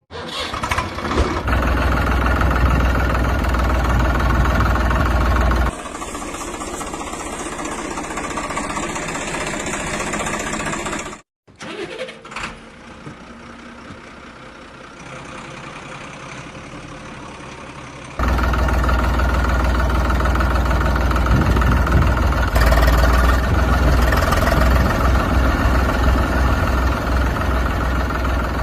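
Vehicle engine running, in several abruptly cut segments; a quieter stretch in the middle follows a brief dropout.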